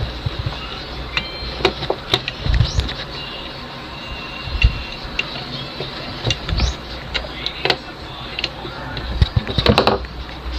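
Scattered clicks and light knocks as a set-top box's circuit board and plastic casing are handled and fitted back together.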